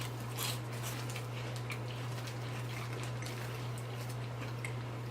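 Faint crunching and chewing of caramel-filled wafers in the mouth, a few soft crackles, over a steady low electrical hum.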